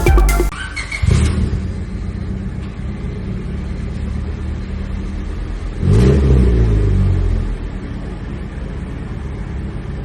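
1998 Honda Civic's four-cylinder engine idling through an HKS Hi-Power muffler, blipped briefly about a second in and revved more strongly about six seconds in before settling back to idle.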